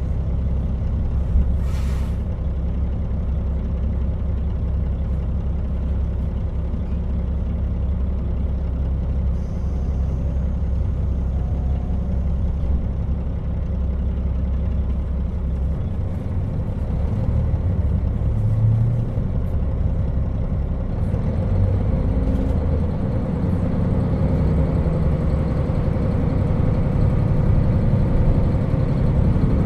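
JR Hokkaido KiHa 40 diesel railcar under way: steady diesel engine drone with wheel and rail running noise, a short hiss about two seconds in, and the engine note shifting and growing slightly louder in the second half.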